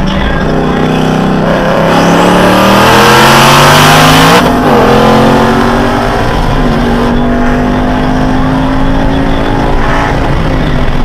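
Ford Mustang GT V8 at full throttle, heard from inside the car during a roll race. The engine climbs in pitch and gets louder, drops sharply at an upshift about four and a half seconds in, then pulls up through the next gear.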